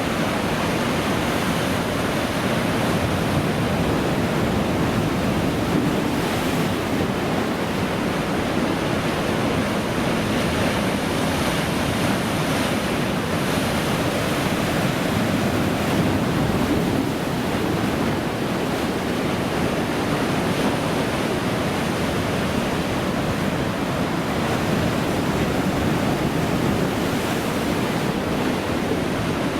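Ocean surf: waves breaking and washing in a steady rush that swells and eases gently, with wind on the microphone.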